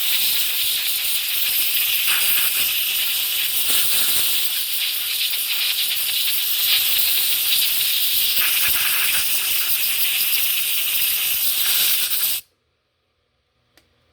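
Compressed air from an air blowgun hissing steadily as it blows solvent and dirt out of a pulley bearing, cutting off suddenly near the end, followed by a single small click.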